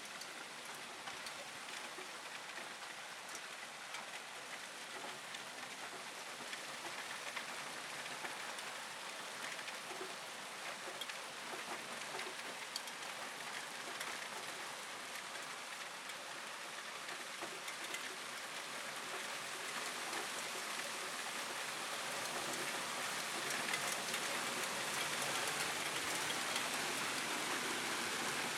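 Hailstones and rain pelting down: a dense hiss of impacts with scattered sharp ticks of individual stones striking, growing louder over the last third.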